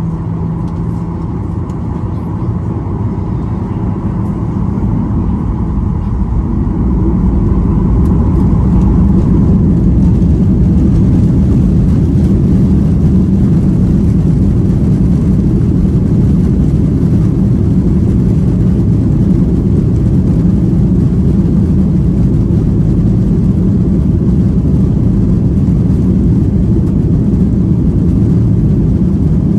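Boeing 737-800's CFM56-7B jet engines heard from inside the cabin, building over the first several seconds to a loud, steady roar that then holds.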